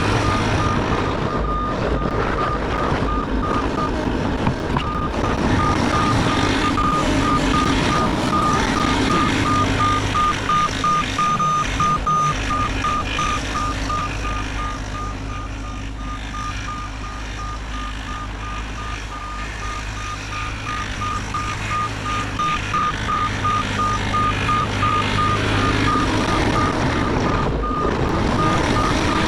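Bobcat E50 excavator running, its travel alarm giving rapid, even beeps at one pitch over the diesel engine's hum. The engine eases off for a while in the middle and picks up again near the end.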